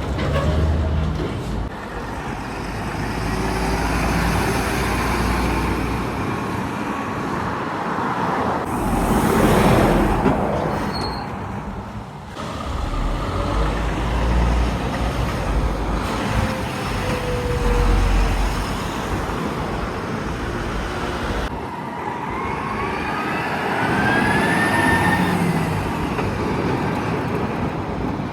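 Trucks and road traffic driving past, with one heavy vehicle passing close and loudest about nine to ten seconds in. A rising whine comes in near the end, and the sound breaks off abruptly a few times between passes.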